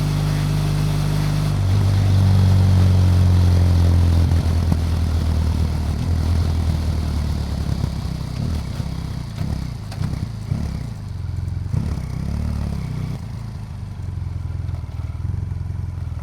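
BMW F800GS Adventure's parallel-twin engine running on the road with rushing wind noise; the engine gets louder about two seconds in, then drops back and wavers in pitch midway before settling to a steadier note.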